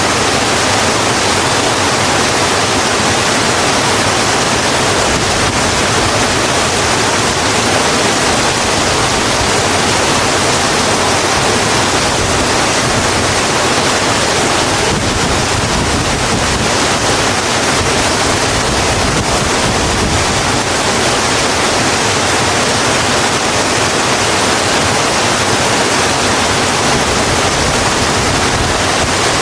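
Steady heavy rain falling on a road: a loud, even hiss with no separate drops or other events standing out.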